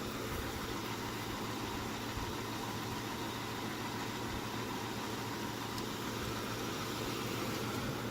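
The V8 engine of a 2002 Ford Explorer idling steadily with a low, even hum. The engine has a fault that leaves it with hardly any power, and its note changed shortly after it was started on starter fluid.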